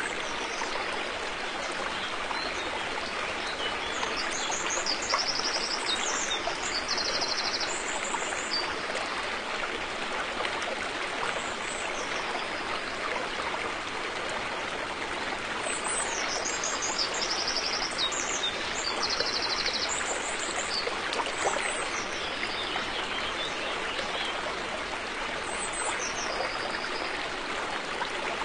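River water flowing and rushing steadily over rocks. Short, high-pitched trilling calls sound in two similar runs, the first a few seconds in and the second just past the middle.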